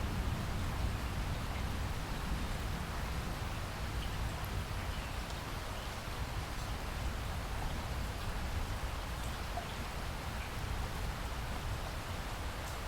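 Steady rain of a rainstorm falling, an even hiss of drops, with the last of a low thunder rumble fading away near the start.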